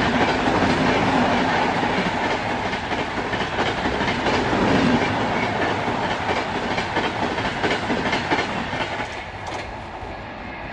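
Passenger coaches of an express train passing at speed, their wheels clattering rhythmically over the rail joints. The noise fades about nine seconds in as the last coach goes by.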